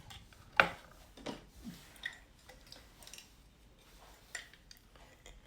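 Half a lemon squeezed by hand into the dressing, with soft squishes and a few sharp clicks and taps, the loudest about half a second in.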